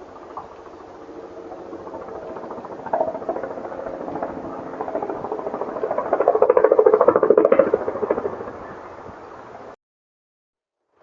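Helicopter passing over, its rapid rotor pulsing building to a peak about seven seconds in and then fading. The sound cuts off suddenly near the end.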